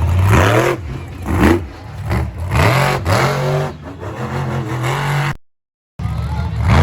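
Race engines revving hard again and again, their pitch swinging up and down with each throttle blip and shift. The sound drops out completely for about half a second near the end, then resumes.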